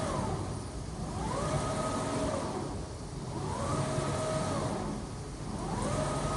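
Double-head CNC router's axis drive motors whining as the machine moves back and forth. The pitch rises as an axis speeds up, holds steady, then falls as it slows, repeating about every two and a half seconds over a steady low hum.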